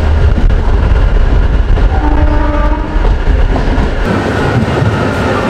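Running noise inside a double-decker AC chair car coach of an Indian Railways express at speed: a loud, steady deep rumble of the train on the track. The deep rumble falls away about four seconds in.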